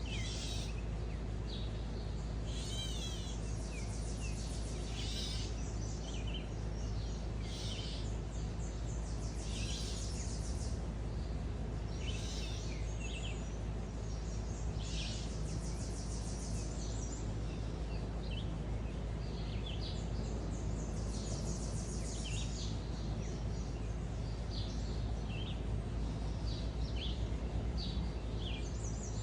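Wild songbirds chirping and trilling, short high calls following one another every second or so, over a steady low background rumble.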